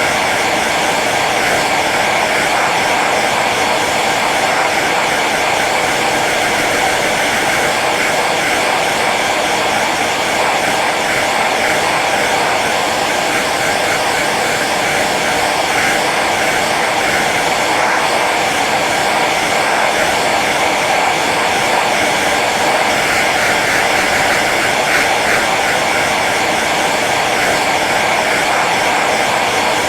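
Hair dryer running steadily on its low setting: an even rush of blown air over the hum of its fan motor, with no change in level.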